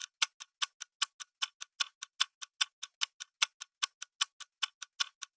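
Clock-ticking countdown sound effect: sharp ticks at about five a second, alternating louder and softer, running steadily as the answer timer.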